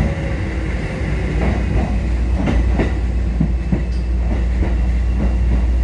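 Kotoden 1080-series electric train running along the track, heard from inside the leading car: a steady low rumble with scattered wheel clicks over the rail joints.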